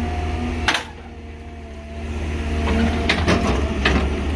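Large excavator diesel engines running under heavy load, with a sharp clack a little under a second in; the engine sound then drops away for about a second and builds back up, with a few short knocks near the end.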